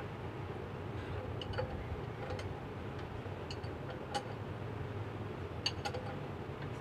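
Light, scattered metallic clicks, about seven in the space of a few seconds, as a Mitsubishi 4D32 diesel engine is turned over by hand at the crankshaft pulley, over a steady low hum.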